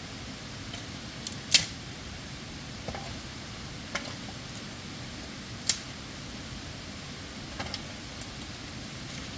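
A few sharp clicks or knocks, irregularly spaced a second or two apart, over a steady low rumble; the loudest click comes a little past the middle.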